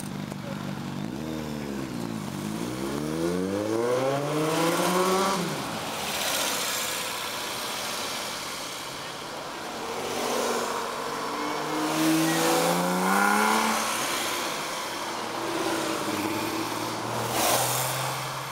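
Porsche sports cars accelerating away one after another, the engine note climbing in long rising sweeps about a second in and again around ten seconds, with a shorter rise near the end.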